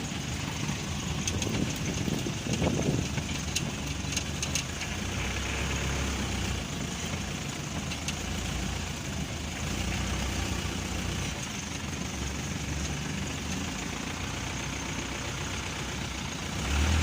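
Truck engine running steadily with a low hum, with a few light clicks or rattles in the first few seconds.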